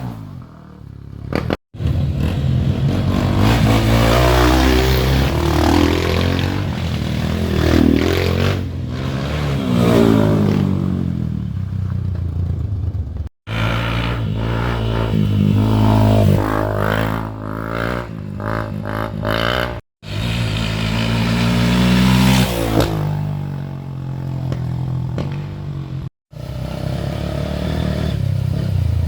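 Dirt bike engines revving up and down under load, in several short stretches separated by abrupt cuts to silence.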